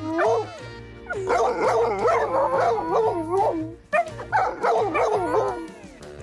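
A dog howling in wavering calls that rise and fall, a short cry first, then two long runs with a brief break between them, over background music.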